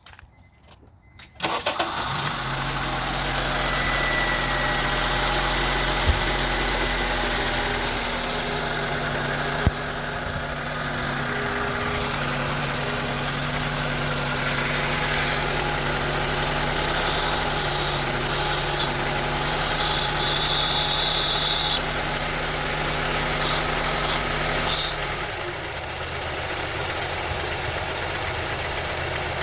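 2002 Honda CR-V's 2.4-litre inline-four starting about a second and a half in, then idling unsteadily, its pitch and level shifting a few times. The idle sounds very bad: the rough idle and stalling fault the owner is chasing through the idle air control valve and throttle body.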